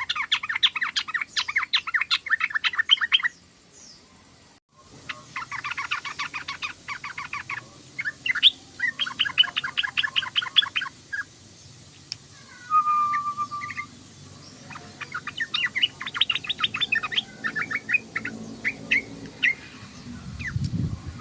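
Yellow-vented bulbul (trucukan) chattering in rapid runs of quick repeated notes, each run lasting two to three seconds, with a short steady whistled note about two-thirds of the way through and scattered single notes near the end.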